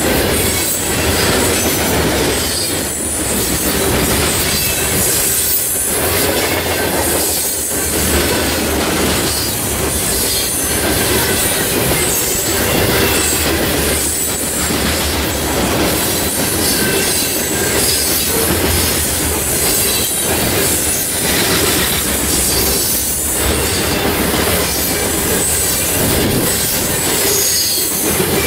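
Freight train of CSX covered hopper cars rolling past close by: a steady rumble of steel wheels on rail, with high wheel squeal and a clack that recurs every couple of seconds as the cars go by.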